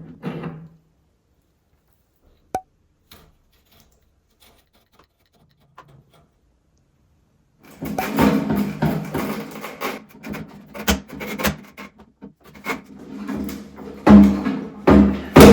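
Parts of a toilet flush tank being handled and fitted: rubbing and scraping with a run of knocks, loudest in two sharp knocks near the end. Before that there is a few seconds of near silence broken by a single click.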